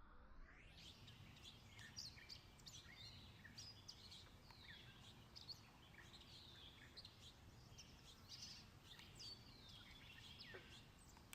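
Faint chorus of small birds chirping: many short chirps and whistles, some sliding down in pitch, over a low steady background rumble.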